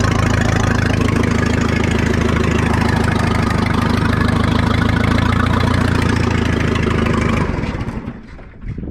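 Case 580 Construction King backhoe engine running steadily, then shut off about seven and a half seconds in and quickly dying away. It is running with oil spraying out of a hole in its oil filter.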